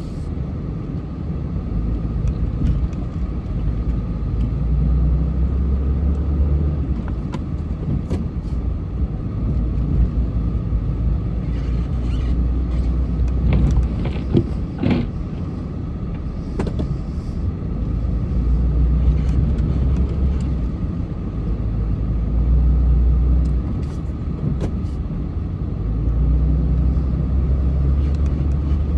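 Car being driven, heard from inside the cabin: a steady low rumble of engine and road noise that swells and eases several times, with a few light knocks about halfway through.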